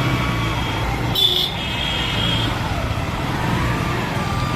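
Road traffic noise: a steady low vehicle rumble, with a brief high tone about a second in.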